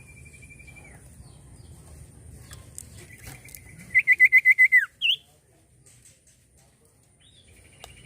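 Common iora (cipoh) calling: a held whistle, then a loud rapid trill of about eight notes that ends in a falling note, followed by a short rising note. Near the end a new, faster trill begins. A thin, steady high-pitched whine runs underneath.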